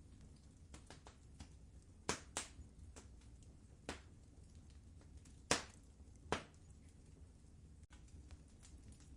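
Wood fire crackling in a fireplace: a low steady rumble under a handful of sharp pops, the loudest just past the middle.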